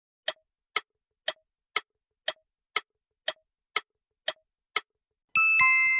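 A clock-like ticking sound effect, ten ticks about two a second, used as a timer during the pause between vocabulary words. It ends with a two-note chime that rings on near the end.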